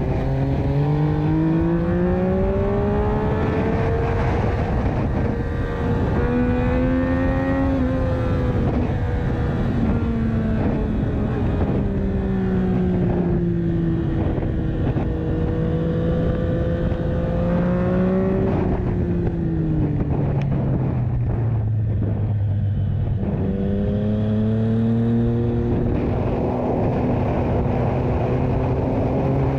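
Yamaha MT-09 (FZ-09) 847 cc inline-three engine running through an Akrapovic exhaust under riding. The revs climb near the start and change with a shift about six to eight seconds in. They hold, ease off for a few seconds past the two-thirds mark, then climb and hold again.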